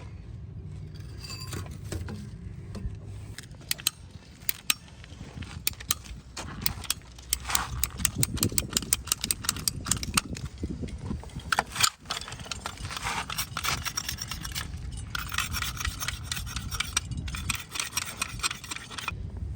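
Hand work on the pipe fitting: rapid, irregular scraping and clicking that thickens into a steady rasping stretch near the end.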